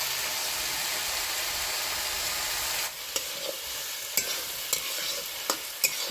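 Bottle gourd and potato pieces sizzling in hot oil in a metal wok, a steady hiss. About three seconds in the hiss drops and a metal spatula stirs the vegetables, clinking sharply against the pan several times.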